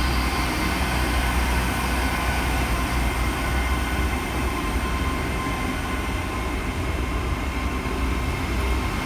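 Great Western Railway Class 800 train (unit 800301) moving slowly past at close range: a steady low rumble with a faint steady whine over it.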